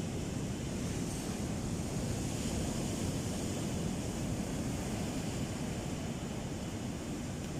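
Steady rush of ocean surf on the beach, mixed with wind buffeting the microphone.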